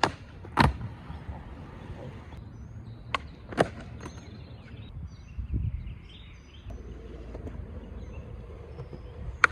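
Skateboard on concrete: a few sharp clacks and knocks of the board, under a second in and around three and three and a half seconds in, then a duller thud about five and a half seconds in. Birds chirp faintly.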